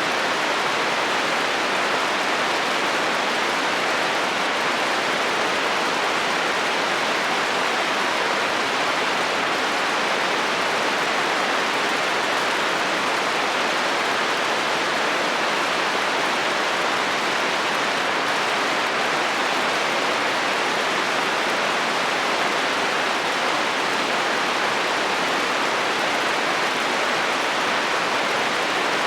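Steady heavy rain drumming on a metal roof, even and unbroken, with no thunder.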